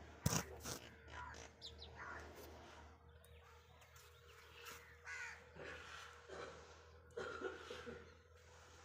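Faint harsh cawing calls of birds, a few times, with a single sharp knock just after the start.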